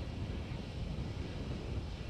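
Steady low noise of wind blowing across an outdoor microphone, with no distinct events.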